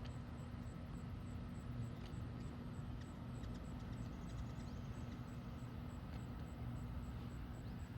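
Outdoor ambience: a steady low hum and rumble like distant traffic or machinery, with a fast, even ticking high up and a few faint short chirps.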